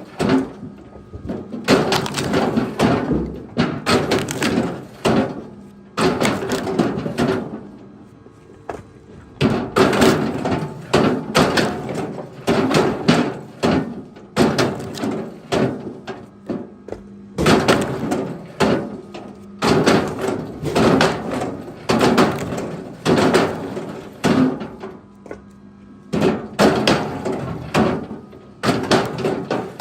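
Pieces of firewood knocking and clattering against each other, a new knock about every second or two.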